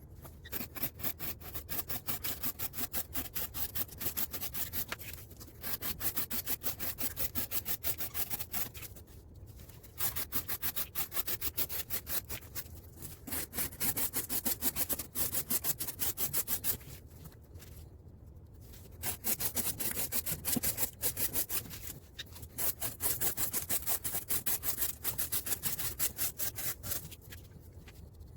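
QSP Woodpecker M390 knife blade making rapid repeated slicing cuts through test material, sped up, in runs of strokes broken by a few short pauses.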